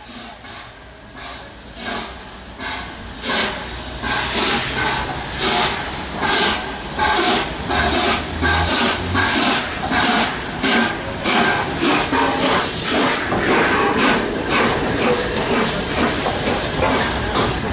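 Three-cylinder A1 Pacific steam locomotive 60163 Tornado pulling away under load: exhaust beats, faint and slow at first, growing steadily louder and a little quicker as it gathers speed, with a steady hiss of steam underneath.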